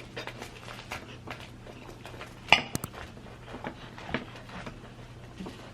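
Cutlery clinking against a plate: a run of small clicks and knocks, with one sharp, ringing clink about two and a half seconds in and a smaller one near four seconds.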